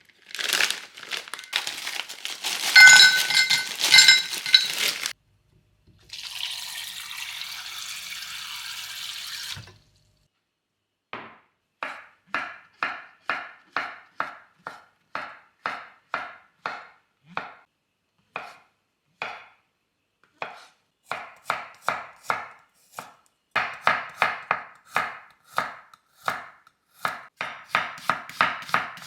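A kitchen knife chopping on a cutting board in an even rhythm, slower at first and quickening to about three strokes a second near the end. It is preceded by a few seconds of clattering kitchenware with ringing tones and then a few seconds of steady hiss.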